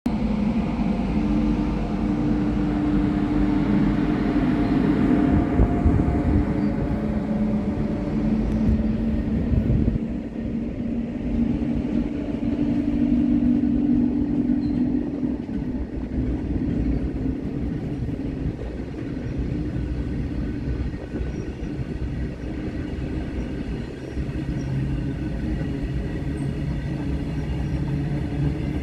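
Freight train hauled by a WAG-9 electric locomotive rolling past, its wagons giving a steady loud rumble on the rails. A steady hum sits over the rumble for about the first half, then fades, leaving the wagon rumble.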